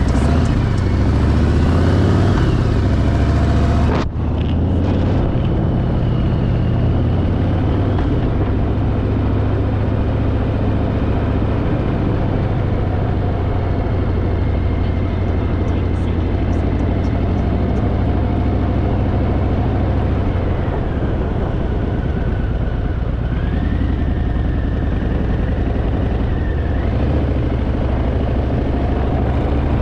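Harley-Davidson Fat Boy's V-twin engine running steadily at road speed, heavy with wind and road noise, with a sudden brief break about four seconds in.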